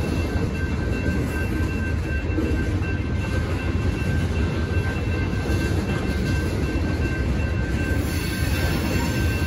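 Freight train of tank cars and hoppers rolling steadily past, its wheels and cars making a continuous low rumble. A grade-crossing signal bell rings over it.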